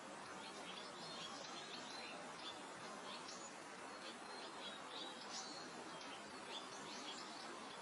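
Soft steady wind hiss across open grassland, with small birds chirping and twittering in short high calls throughout.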